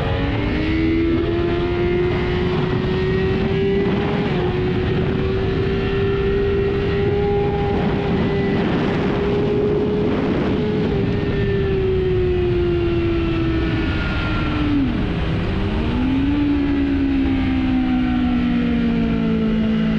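Four-cylinder sportbike engine running at high revs on a circuit, over steady wind noise. The engine note climbs slowly for about ten seconds, falls away, dips sharply and recovers about fifteen seconds in, then eases lower.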